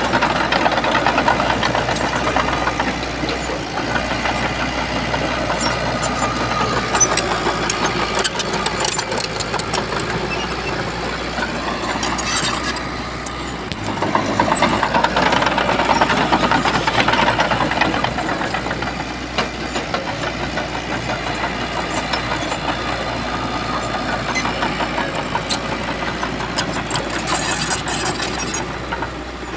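Shantui bulldozer's diesel engine running at working revs. It eases off briefly about halfway through, then picks up again.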